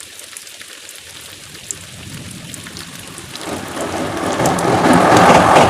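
An ICF-coach passenger train arriving: a rumbling noise grows steadily louder from about three seconds in, with faint clicks over it.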